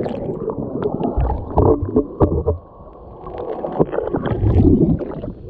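Pool water sloshing and bubbling as a swimmer does a back flip, heard muffled with scattered small clicks, with a quieter lull about halfway through.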